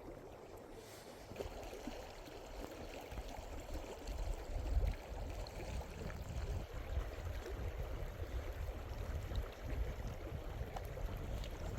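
Steady rushing noise of running water, with wind rumbling on the microphone in gusts.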